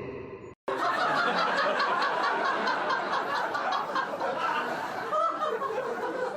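Laughter sound effect: snickering and chuckling laughter that starts suddenly about half a second in, after a brief silence, and keeps going with quick, repeated pulses.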